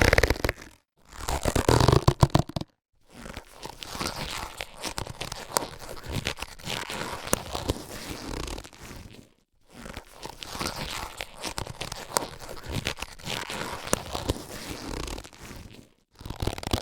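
Latex surgical gloves being handled, the rubber stretching and rubbing with a crinkly, scraping sound. Two short bouts come in the first few seconds, then two long continuous bouts with a brief pause between them about nine and a half seconds in.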